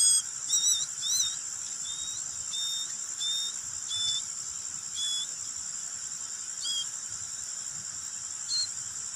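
Baby bird (nestling) chirping: a dozen or so short, high whistled peeps, coming quickly at first and then only now and then. A steady high-pitched trill runs behind them.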